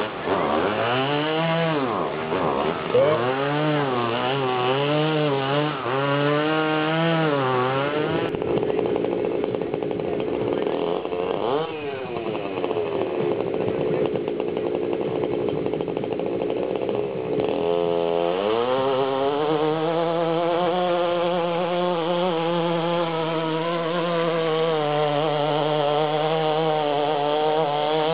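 Small two-stroke engine of a 1/5-scale RC pulling tractor, revved up and down in quick swings for the first several seconds. After a less even stretch midway, it climbs to high revs and holds there steadily under load during the pull.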